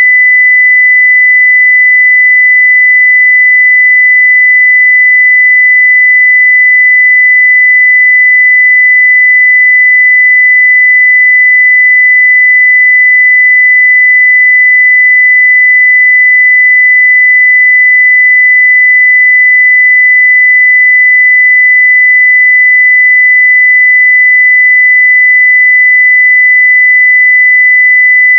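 A steady 2 kHz sine-wave test tone at full level, one unbroken pure pitch.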